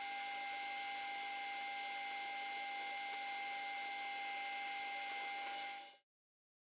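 Metal lathe running while boring out a steel sleeve: a steady machine whine and hum. It cuts off suddenly about six seconds in.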